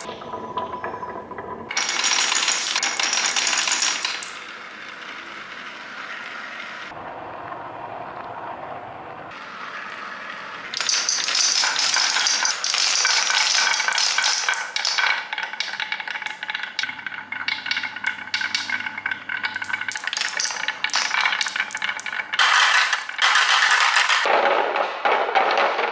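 Glass marbles clattering and rolling along a marble-run track in rapid clicks: a burst about two seconds in, a quieter rolling stretch, then a long run of dense clattering from about eleven seconds in.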